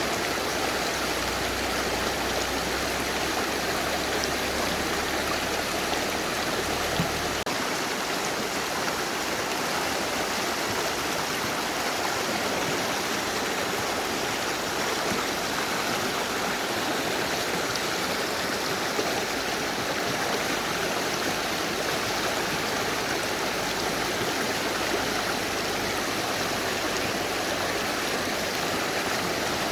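Mountain river rushing over stones: a steady, even rush of water.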